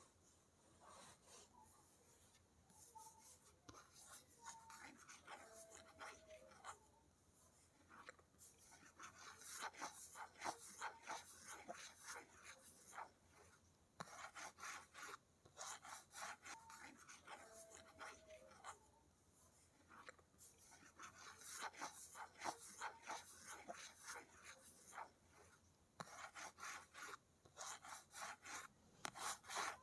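Quiet, close fingernail scratching and tapping on a hard object, in runs of rapid strokes with short pauses between, and a few faint squeaks.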